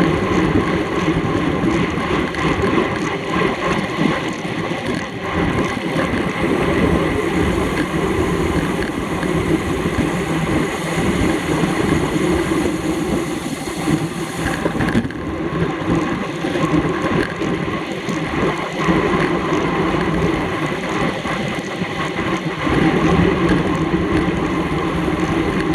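Steady rush of wind over the microphone of a camera riding on a racing bicycle at speed.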